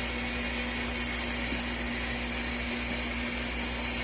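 Steady hum of an electric fan with a constant whine, over an even hiss of water running into a portable washing machine's tub as it fills.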